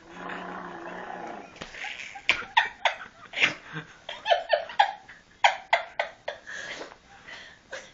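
A baby laughing: a quick run of short, breathy laugh bursts, about a dozen of them, starting about two seconds in.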